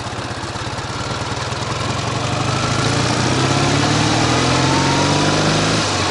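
Ural sidecar motorcycle's two-cylinder boxer engine running on the move, rising steadily in pitch and loudness as it accelerates from about two seconds in, then dropping off near the end.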